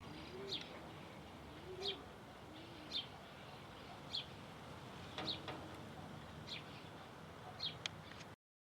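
Birds calling: short, high chirps repeated about once a second, with a few low, arching coos in the first three seconds. The sound cuts off abruptly near the end.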